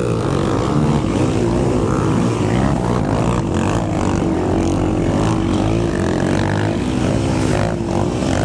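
Quad (ATV) engine running hard under race load, its revs repeatedly rising and falling as the throttle works through a muddy course, heard close up from the machine with wind and rushing noise over it.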